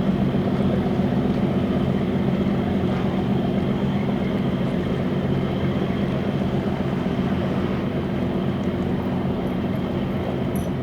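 Boat engine running at a steady speed, a constant low hum that eases off slightly near the end.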